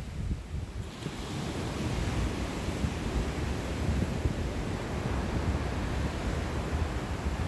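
Sea waves washing onto the shore, a swell of surf rising about a second in and holding as a steady wash. Wind buffets the microphone, adding an uneven low rumble.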